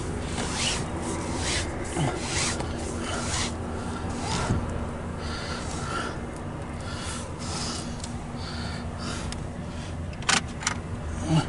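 MARC bilevel commuter coaches rolling slowly past, heard from inside a car: a steady low rumble and hum with rasping, scraping noises about once a second, and a couple of sharp clicks near the end.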